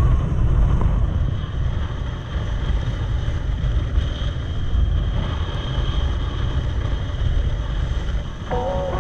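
A motorcycle being ridden, with a steady low rumble of wind buffeting the camera microphone over the engine. Background music starts near the end.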